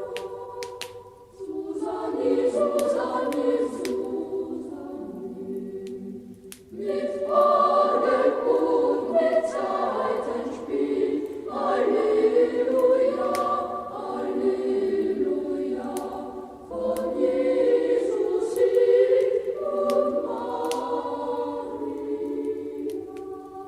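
A choir singing a Christmas carol in long held phrases with short breaks, over the scattered sharp crackles of a log fire.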